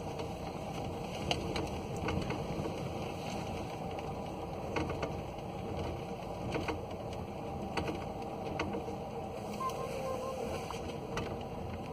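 Passenger train running, heard from inside the carriage: a steady rumble of wheels on rail with occasional faint sharp clicks.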